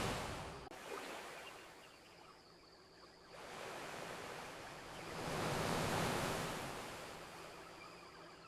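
Ocean waves washing onto a beach: one wave dies away over the first two seconds, then a second surges in, is loudest about two thirds of the way through, and recedes. A single sharp crack comes just under a second in.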